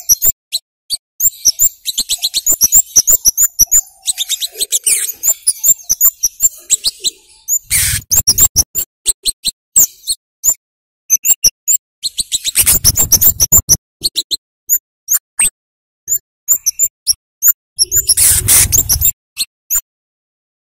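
Scarlet-headed flowerpecker (cabai jawa) giving sharp, high 'cit' calls in rapid, irregular runs, with three louder, rougher bursts of calling.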